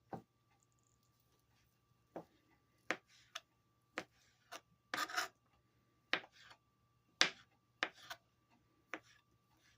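Knife cutting rotisserie chicken on a cutting board: irregular short scrapes and taps, about one or two a second.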